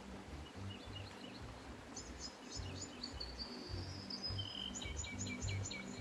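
Small birds chirping near a river: quick runs of short, high notes about two seconds in and again near the end, with a thin whistled note between them. A low, uneven rumble sits underneath.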